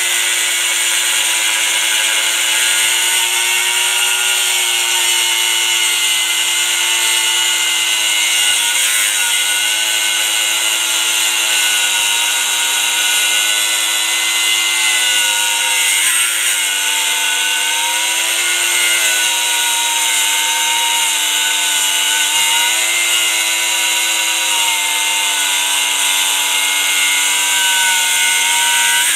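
Handheld angle grinder with a cutoff wheel cutting through the steel shell of an air-conditioning compressor motor: a steady high whine over a grinding hiss, its pitch wavering a little as the wheel bites.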